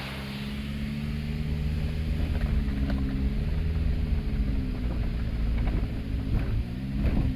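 Car engine running steadily, its pitch rising just as it begins and then drifting slightly up and down, with a few light knocks near the end.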